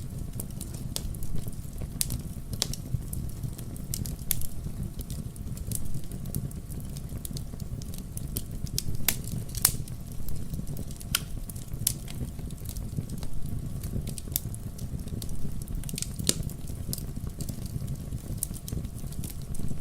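Wood logs burning in a fireplace: irregular sharp crackles and pops over a steady low rush of the flames.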